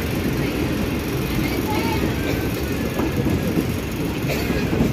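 Passenger train running, heard from inside a carriage at an open window: a steady low rumble of wheels on the rails.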